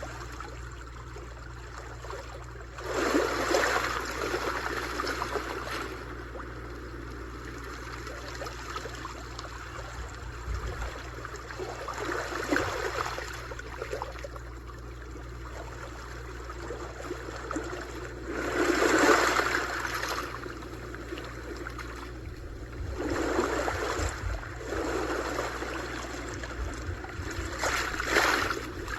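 Sea waves breaking and washing onto the shore: a steady wash of surf with a swelling surge every few seconds, five in all, the loudest about two-thirds of the way through.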